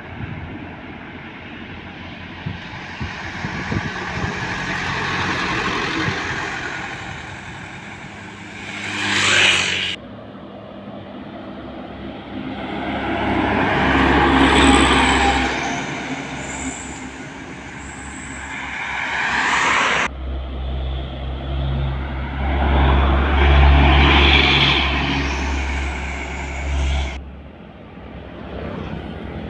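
Heavy diesel trucks passing close by on a road, each pass swelling and fading, with a deep engine drone loudest in the last pass. The sound is spliced from separate clips, cutting off abruptly about a third and two-thirds of the way through and again near the end.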